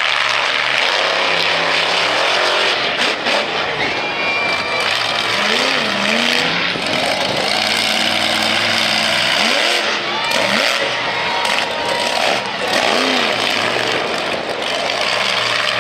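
Monster truck engine running hard, its revs rising and falling several times as the throttle is blipped and held.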